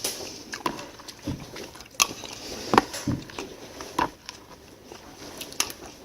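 Irregular sharp clicks and a few light knocks, the sound of things being handled.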